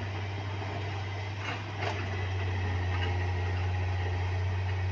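A heavy engine running steadily with a low, even hum, with a couple of short clicks about a second and a half to two seconds in.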